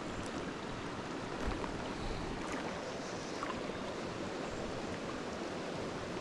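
A small mountain creek's water running steadily over rocks, with a few faint ticks and splashes.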